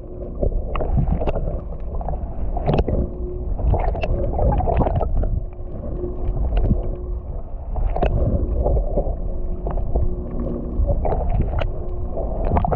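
Water sloshing and slapping against a twin-hulled boat's hulls, with irregular small splashes and knocks over a steady low rumble.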